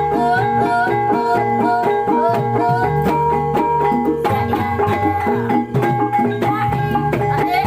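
Javanese traditional music for a warok and kuda lumping dance: a steady drum-and-gong rhythm under held tones and a melody line that bends and slides in pitch.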